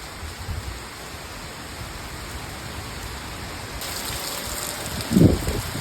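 Steady rain falling. About four seconds in it grows brighter, with many distinct drop hits, and near the end there is one short, loud, low thump.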